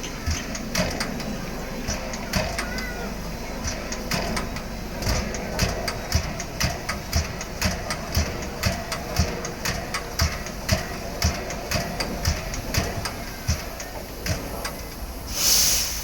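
A standing C62 steam locomotive: a steady low rumble under a run of sharp metallic knocks that settle into about two a second, then a short burst of hissing steam near the end.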